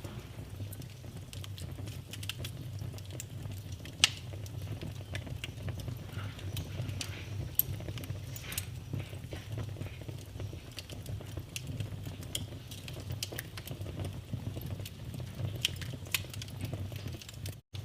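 Wood fire crackling with many small irregular snaps over a steady low rumble of flames. Two louder pops stand out, about four seconds and seven and a half seconds in.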